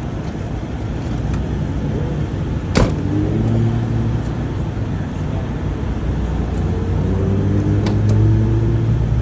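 Truck engine running with a steady low rumble, and a sharp click about three seconds in. Twice an engine tone swells and rises slightly for a couple of seconds.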